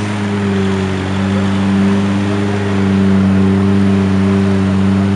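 Lamborghini Murcielago SV's 6.5-litre V12 running at low, steady revs as the car rolls slowly, a deep even engine note with no revving.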